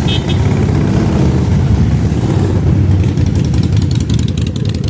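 Large-displacement motorcycle engine running with a steady low rumble; a rapid crackle joins in the upper range about midway.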